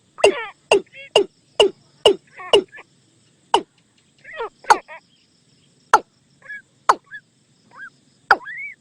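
Watercock calls from a decoy-bird recording: a series of sharp notes, each dropping steeply in pitch, about two a second at first and then more spaced out, with softer bubbling, curving notes between them. Insects buzz faintly and steadily in the background.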